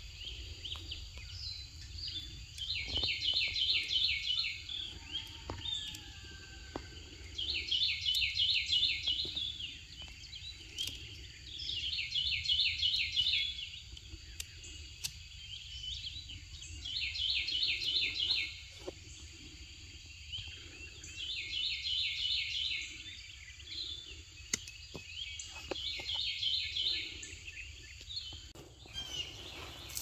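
A songbird singing, repeating the same short phrase of rapid high notes about every four to five seconds, over a low steady rumble.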